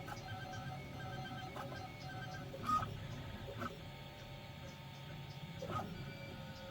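Home-built crossed-cantilever 3D printer printing: its stepper motors whine in steady pitched tones that pulse on and off in short repeated runs as the head moves. Three brief sharper chirps come in, the loudest a little under halfway through, the others a second later and near the end.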